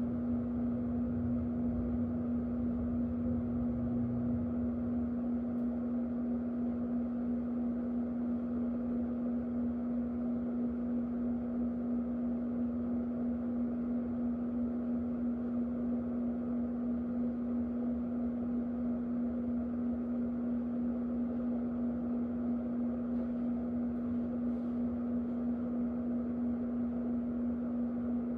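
Electric fan running steadily: a constant motor hum under an even rush of air.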